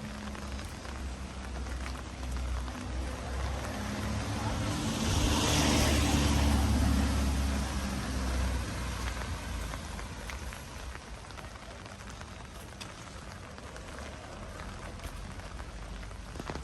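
Steady rain falling, with a vehicle passing on the wet road: its low engine rumble and tyre hiss swell to a peak about six seconds in and fade away.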